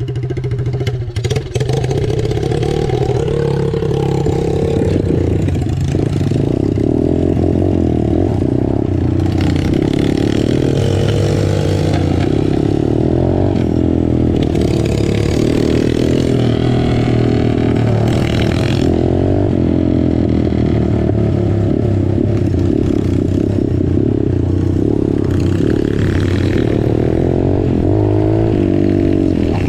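Small straight-piped motorcycles, a 125 and a 150, being ridden, the loud engine note rising and falling continuously as the throttle opens and closes.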